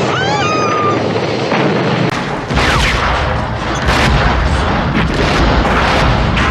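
Shrill bird cries in the first second, then from about two seconds in a dense barrage of gunfire and explosions over a heavy low rumble.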